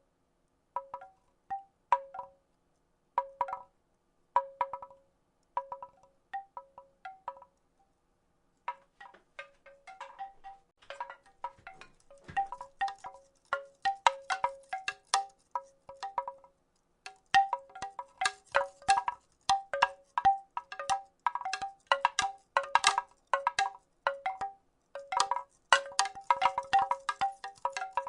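Wooden rattle being shaken, a clattering of small wooden strikes that ring briefly at a few fixed pitches. For the first several seconds it comes in separate shakes about once a second; after a short pause about 8 s in, the shaking turns faster and almost continuous.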